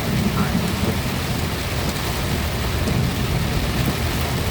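Heavy rain pouring on a moving car, heard from inside the cabin as a steady hiss with a deep low rumble underneath.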